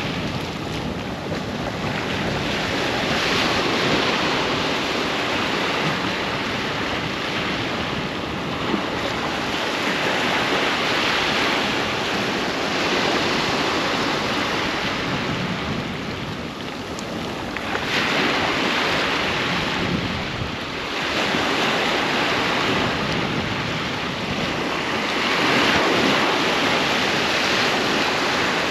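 Ocean waves breaking and washing up a sandy beach, the surf swelling every few seconds in a steady continuous wash, with some wind on the microphone.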